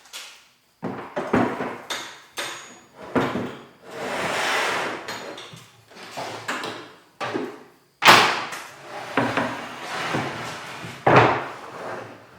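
Wooden knocks and clatters with a sliding scrape: pieces of wood being handled, slid and set down on a workbench. There are several sharp knocks, the loudest about 8 and 11 seconds in.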